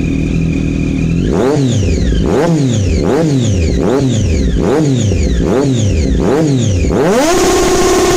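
BMW S1000RR's inline-four engine idling briefly, then revved in about seven quick throttle blips, each rising and falling back. Near the end it is held at higher revs for about a second before dropping away.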